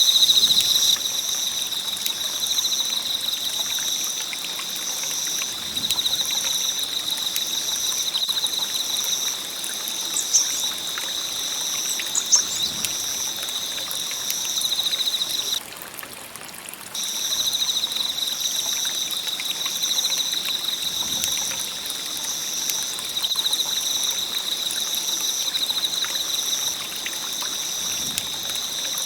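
Campfire burning with a soft, steady crackle and two sharper pops about ten and twelve seconds in. A loud, high-pitched pulsing trill runs over it throughout and drops out for about a second just past the middle.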